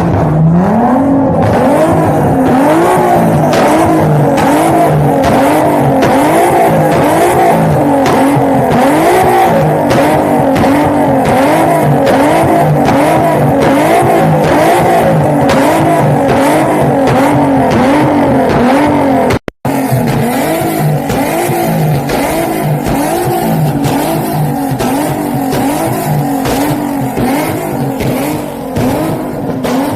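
A car engine running loud at high revs, its pitch rising and falling about once a second, repeatedly. It cuts out for a moment about two-thirds through.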